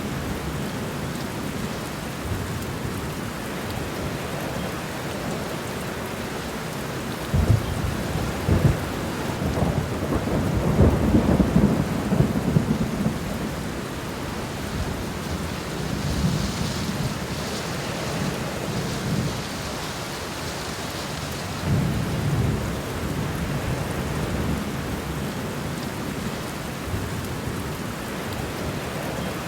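Steady rain falling, with thunder rumbling low underneath. The heaviest roll of thunder swells about a quarter of the way in, and a smaller one comes about three quarters of the way through.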